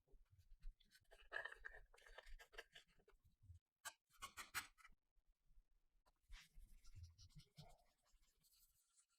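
Faint, irregular scratching and rubbing with scattered small clicks, like hand work on a gun part: brushing, sanding or scraping at a restoration bench.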